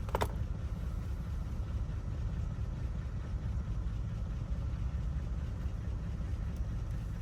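Steady low rumble of an idling engine, with a single small click about a quarter second in.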